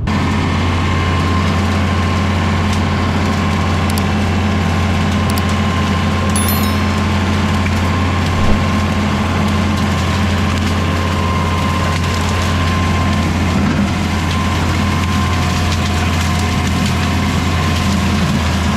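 LS MT573 tractor running steadily under load, driving a Woods BushBull rotary cutter that is shredding thick bamboo, with the splintering and crushing of the canes over the engine. There is one sharp crack about eight and a half seconds in.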